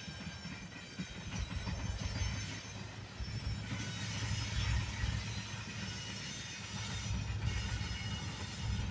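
A train rolling along the rails: a steady low rumble of the wheels and cars, with faint steady high-pitched wheel squeal above it.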